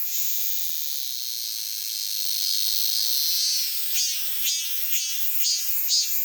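Cicadas singing: a steady high buzzing drone that breaks, after about three and a half seconds, into pulsed calls repeating about twice a second.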